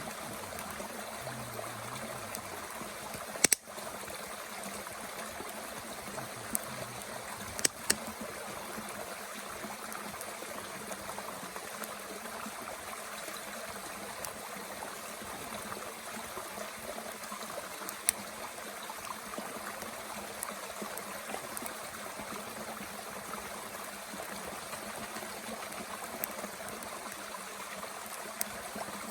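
Mountain stream flowing steadily, with a few sharp crackles and pops from wood burning in a small Bushbox stove, the loudest about three and eight seconds in.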